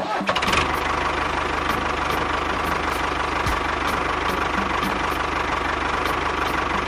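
A small engine running steadily at an even speed, with a fast, even low pulse.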